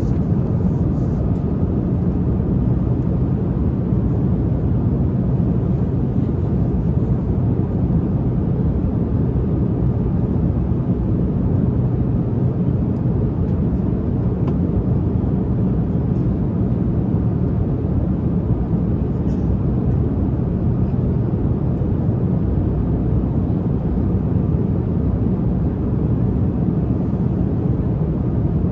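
Steady low drone of a jet airliner cabin in flight: engine and airflow noise, unchanging throughout.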